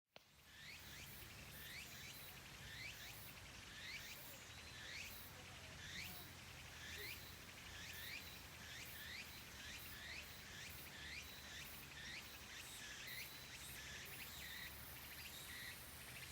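Faint outdoor ambience: a small animal's short, high chirping call repeated about every three-quarters of a second, over a low steady hum.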